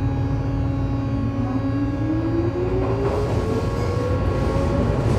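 Armature chopper control of a Tobu 9000 series electric train, heard from directly above on car MoHa 9204, a car singled out for an abnormal chopper noise. Over a low running rumble and steady hum, a whine begins climbing in pitch about a second in as the train pulls away and accelerates.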